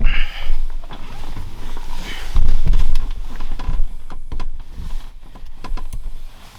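Irregular rustling, scraping and knocking, with heavy low thumps, from cleaning dirt off a tractor cab floor by hand. It is loudest about two and a half seconds in.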